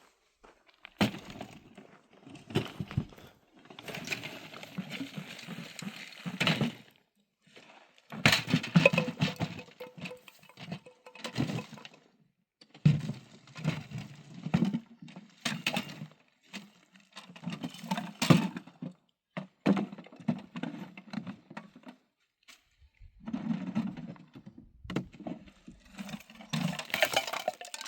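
Irregular knocking, clatter and rustling as things are handled and moved about, with sharp cracks and thuds now and then and short pauses between bouts.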